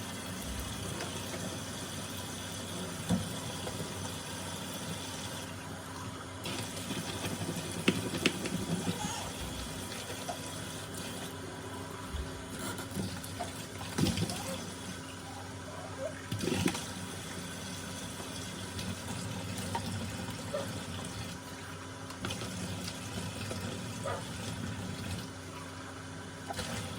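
Water running steadily from a tap into a sink during washing-up, with a few light knocks of items handled in the sink.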